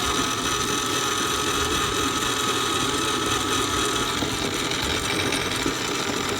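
A small electric motor running steadily, with a thin steady whine that fades about four seconds in.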